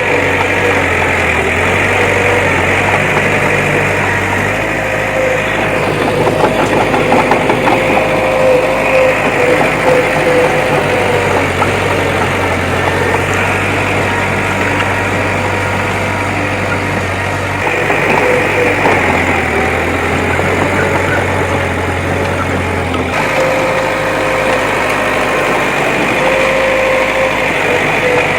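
Bulldozer's diesel engine running steadily under work, its low engine note stepping up and down a few times.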